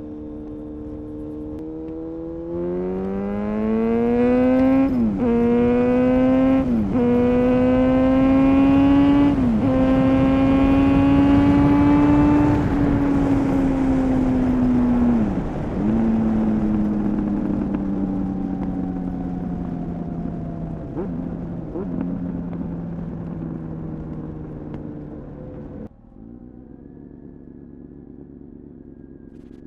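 2000 Honda CBR929RR Fireblade's inline-four, through an Erion full racing exhaust, accelerating hard: the pitch climbs with three quick upshifts about two seconds apart. It then falls away on deceleration with a few downshifts, and drops suddenly to a low idle-like hum near the end.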